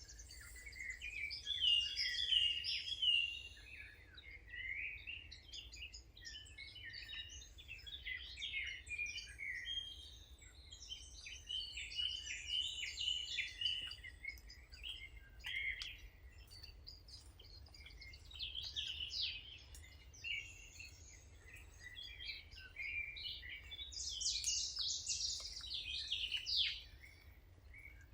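Several birds singing and chirping continuously, overlapping short calls and trills.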